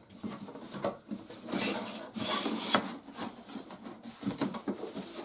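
Cardboard box and packaging being handled: irregular rubbing and scraping with a few light knocks.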